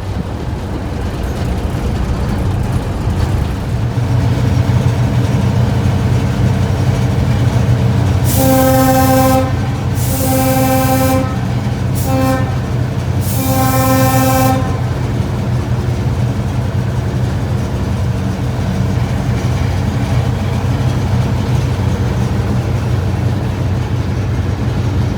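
Diesel locomotive's engine running steadily, growing louder over the first few seconds. About eight seconds in, its air horn sounds two long blasts, a short and a long: the standard grade-crossing signal.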